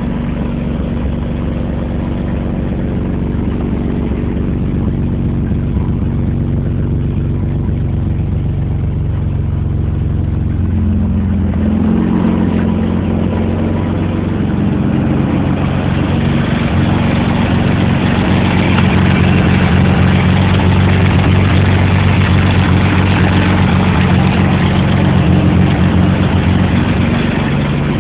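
Chevrolet Suprema 3.0's straight-six engine running steadily at idle, then from about eleven seconds in held at a higher, louder speed for most of the rest, easing back slightly near the end.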